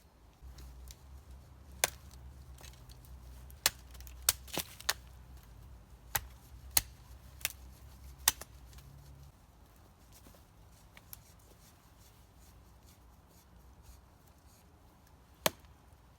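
A series of sharp, irregular clicks, about nine in the first half and one more near the end, over a low rumble that stops about halfway through.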